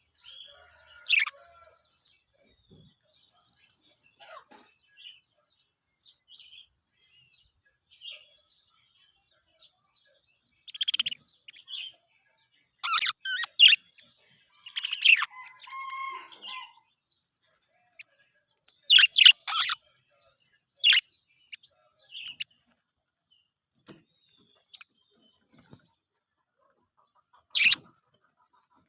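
Budgerigars chirping: short, sharp calls in scattered bursts with pauses between, and a soft warbling chatter near the start.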